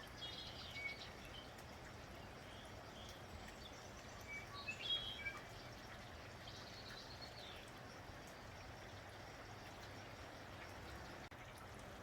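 Steady light rain falling, with small birds chirping in short bursts over it: a few chirps at the start, a louder cluster about five seconds in, and more near seven seconds.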